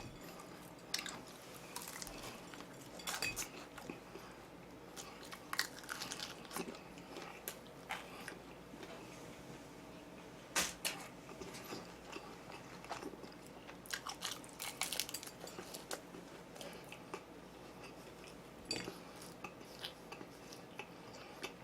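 A person biting and chewing crispy fried chicken, with scattered crunches and crackles of the crust every second or so.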